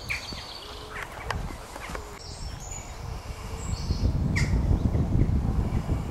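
Wild birds chirping and calling outdoors: short chirps and a few higher calls in the first half, and one sharp call about four seconds in. From about halfway, a low rumble comes up underneath.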